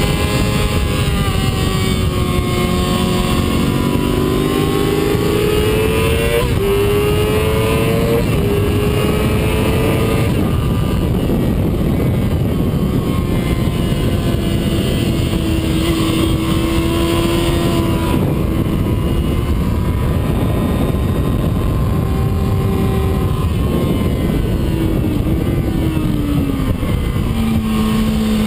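Yamaha YZF-R6's inline-four engine running hard on track, heard onboard with heavy wind rush. Its pitch climbs through the revs and breaks off at several gear changes, then drops low near the end as the bike slows.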